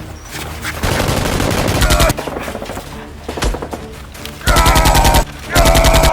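Three bursts of rapid automatic gunfire sound effects: one about a second in lasting about a second, a shorter one past the middle, and another starting near the end.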